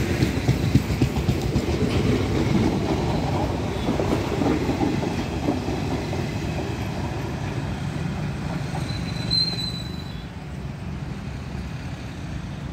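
Passenger train coaches rolling past on the track, their wheels clattering over rail joints, the sound fading as the last coaches pull away about ten seconds in. A brief high squeal about nine seconds in.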